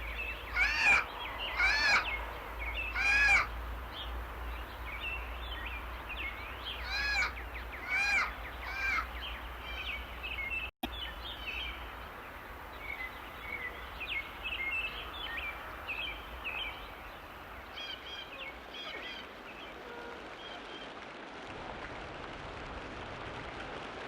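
Forest birds calling over a steady background hiss: loud, arched, harsh calls about once a second at the start and again a few seconds later, then softer scattered chirps. The sound briefly drops out for an instant about a third of the way through.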